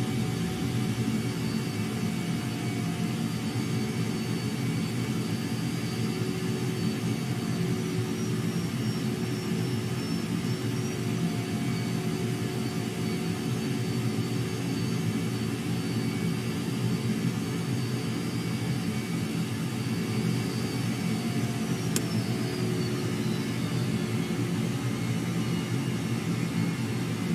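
Blue Angels jet aircraft engines running steadily. A high whine falls in pitch over the last few seconds, after a single sharp click.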